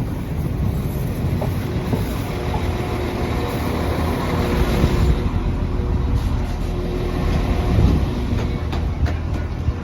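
Northern diesel multiple unit running into the station, a loud steady rumble of engine and wheels on the rails, with a few sharp clicks near the end.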